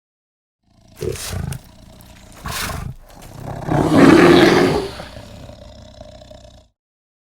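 A big cat roaring: two short growls about a second in and two and a half seconds in, then one long, loud roar around four seconds in that tails off.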